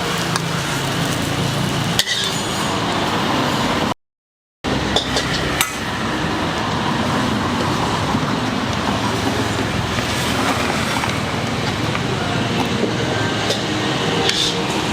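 Stir-frying in a wok: a steady loud sizzle and burner noise, with scattered clinks and scrapes of a metal spatula against the wok. About four seconds in, the sound drops out completely for half a second.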